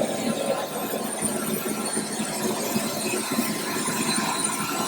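Steady engine and air noise inside a private jet's cabin, an even rush with a few faint steady tones over it.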